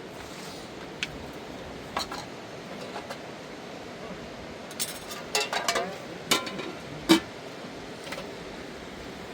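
Light clinks and knocks, scattered at first and then in a quick cluster about five to seven seconds in, the loudest ringing briefly, over a steady background rush.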